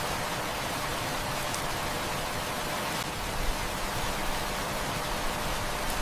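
Heavy rain falling steadily, a dense even hiss, with a couple of brief pops a little past halfway.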